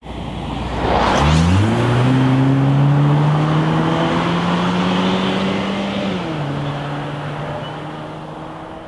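Car engine revving up under acceleration, its pitch climbing quickly and then rising steadily, falling back about six seconds in and fading away. A short whoosh comes just before the engine note.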